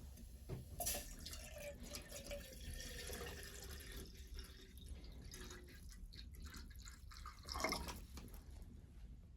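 Water dripping and trickling, with a louder sweep of sound about two seconds before the end.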